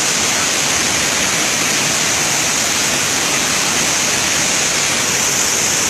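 A waterfall: the loud, steady rush of falling water, with a strong hiss and no break.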